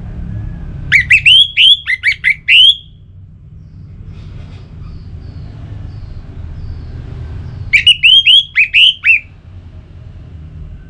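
Orange-headed thrush (anis merah) singing: two loud bursts of quick, rising upswept notes, each lasting about a second and a half, the second starting about eight seconds in, over a low steady rumble.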